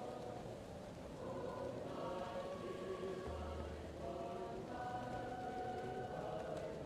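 A choir singing long held notes, muffled as if heard from another room, over the faint crackle of a wood fire.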